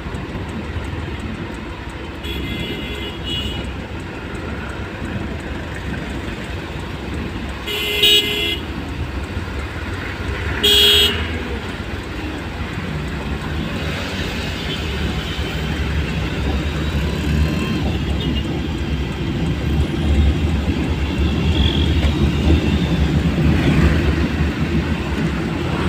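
Road traffic with car horns: faint toots a few seconds in, then two louder short horn blasts about 8 and 11 seconds in, over a steady rumble of engines and tyres that grows louder near the end.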